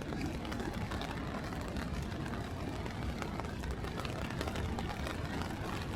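Steady city street noise from traffic, with a low rumble and many faint ticks and patters throughout.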